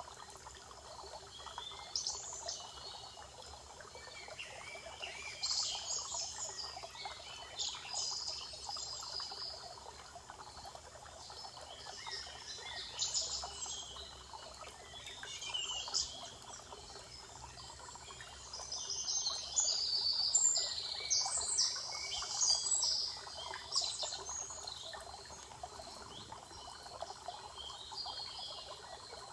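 Several songbirds singing and chirping in short, repeated phrases over a faint steady background hiss, the song busiest about two-thirds of the way through.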